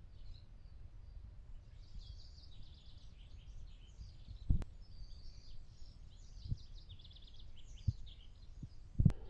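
Small birds chirping and trilling continuously in a dawn chorus over a low rumbling background, broken by a few sharp low thumps, the loudest about halfway through and near the end.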